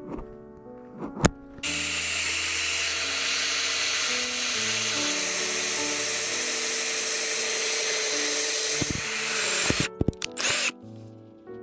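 A power tool running steadily for about eight seconds, starting abruptly and cutting off near the end, over background music.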